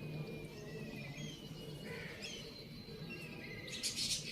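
Faint chirps and twitters of birds, with a short harsh rasp near the end; no rooster crow.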